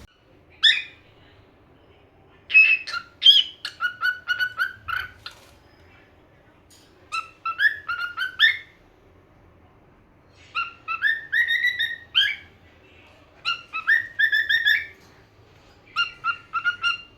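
Pet parrot chirping and whistling in six short bursts of quick notes, with pauses of a second or two between them.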